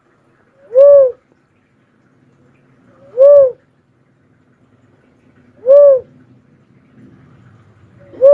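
Cuckoo-dove giving its call: a single short, rising-then-falling coo repeated evenly about every two and a half seconds, four times.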